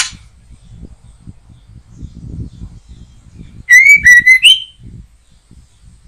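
White-rumped shama giving one loud whistled phrase about four seconds in: three clear notes at one pitch, the last rising higher, under a second in all. A sharp click right at the start.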